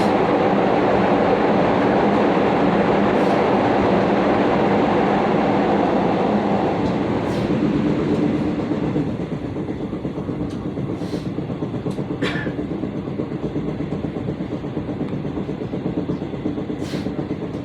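Commuter electric train running on rail, heard from inside the carriage: a steady rumble of wheels on track with a rhythmic thumping, which the uploader puts down to wheels that have not been reprofiled. The running noise drops noticeably about halfway through, and a few brief sharp clicks follow.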